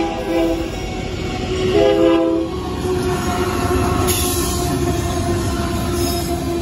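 Union Pacific freight locomotive's air horn sounding a warning for the grade crossing: one blast ends just under a second in, and a second, short blast follows at about two seconds. The locomotive then rumbles past close by, with a burst of rushing noise about four seconds in as it goes by.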